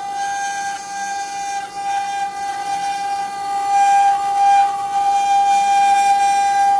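CNC wood-carving router's spindle running with a steady high whine, getting louder about four seconds in.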